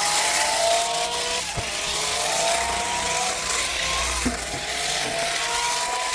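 Battery-powered toy running: a whine from its small electric motor and plastic gears that rises slowly and drops back every second or two, with a few light knocks.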